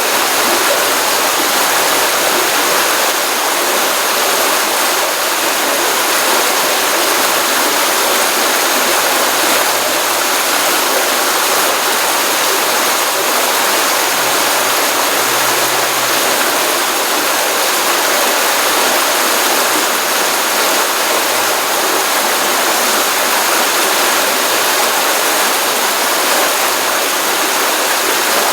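Stream water running steadily out of a pond after rain, a continuous, even rushing and splashing.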